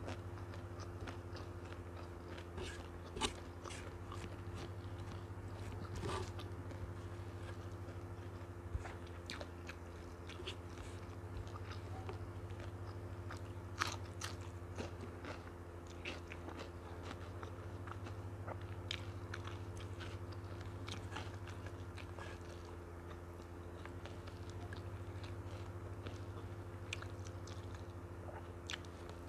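Close-miked chewing of nasi lemak with fried noodles, eaten by hand, with scattered sharp crunches and clicks throughout. A steady low hum runs underneath.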